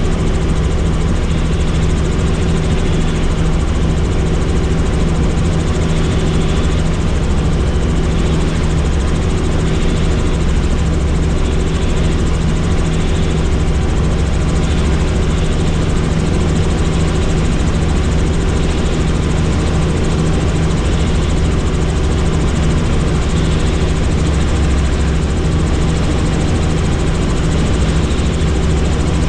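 Helicopter in steady flight: a loud, even drone of the rotor and engine with a constant low hum, unchanging throughout.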